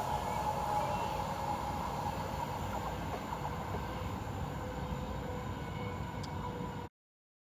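Electric-hauled express passenger train rolling away along the track: a steady rumble with a faint ringing tone, slowly fading. The sound cuts off abruptly about seven seconds in.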